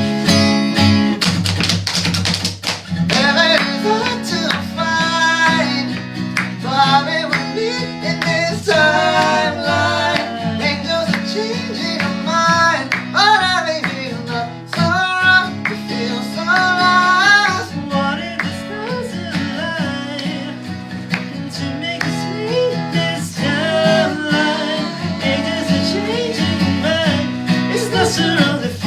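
Live band music: guitar with a melodic lead line over sustained low bass notes, the instrumental intro of the song before the lyrics begin.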